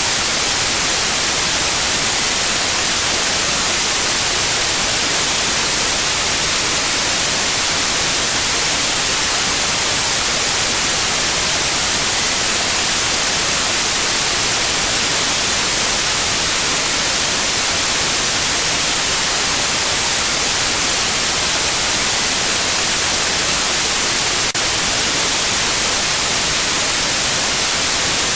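Steady white noise with a continuous high-pitched pure tone at about 9.6 kHz (a 9645 Hz tinnitus-therapy tone) running over it. The tone drops out for a moment about half a second in and again about twenty seconds in.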